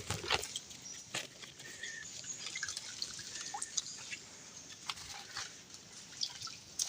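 Faint, scattered drips and small clicks of water, irregular and without any steady sound behind them.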